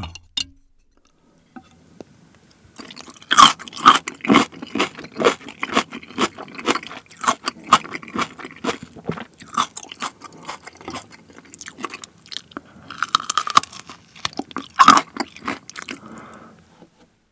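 Close-miked chewing of a soy-sauce-marinated onion piece: irregular wet, crisp crunches that start about three seconds in and go on until shortly before the end.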